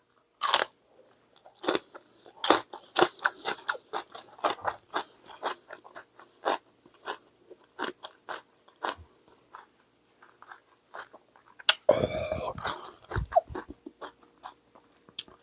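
Close-up crunching and chewing of a raw green chili pepper dipped in gochujang: a sharp crisp bite about half a second in, then irregular crunchy chews. A louder, noisier stretch of chewing about twelve seconds in.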